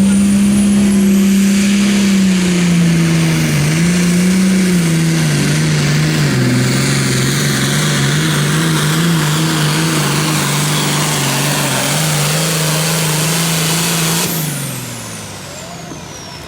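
Super Farm pulling tractor's diesel engine running flat out under load through a pull. Its pitch dips about three seconds in, then sags lower and holds steady as the sled bogs it down. Near the end the throttle comes off, and the engine note and a high whistle wind down.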